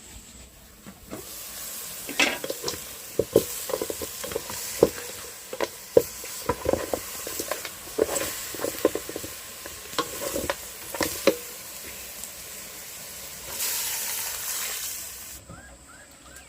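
Food sizzling as it fries in a pan, with a utensil scraping and clicking against the pan over and over as it is stirred. The sizzle swells near the end, then stops abruptly.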